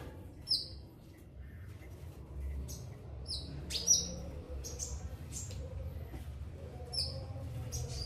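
Caged birds chirping in short, sharp, high chirps at irregular intervals, the loudest about four seconds in.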